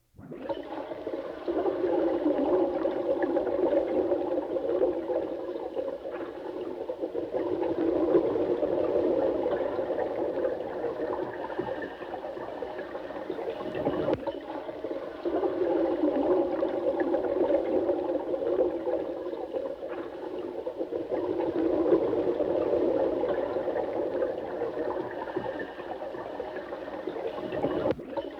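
Running water: a steady rushing and gurgling that swells and eases every few seconds, with a brief dropout near the end.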